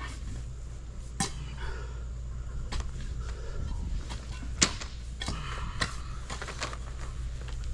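Scattered sharp clicks and knocks of work handling, the loudest about four and a half seconds in, over a steady low hum.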